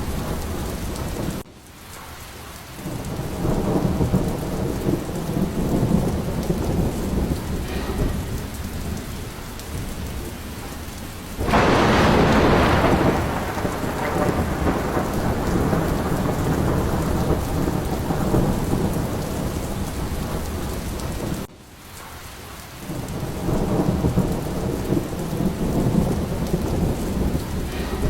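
Steady heavy rain with rolling thunder. The rumbles swell several times, and about eleven seconds in a loud thunderclap cracks and fades over a couple of seconds. The sound drops abruptly and briefly twice.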